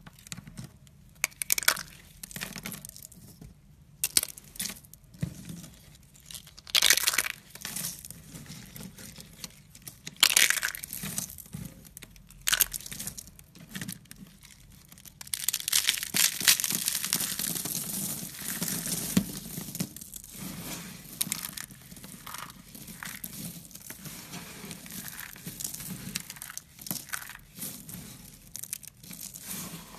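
Irregular rustling, crinkling and clicking of objects being handled, with a denser stretch of continuous rustling about halfway through.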